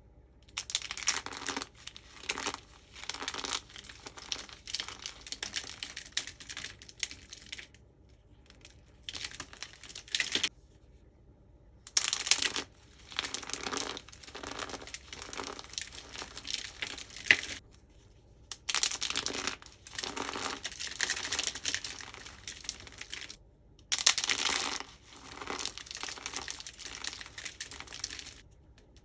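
Starch-coated soap being crunched and crumbled, dense crackling crunches in several bouts separated by short pauses, the longest gaps about a third of the way in and again near the two-thirds mark.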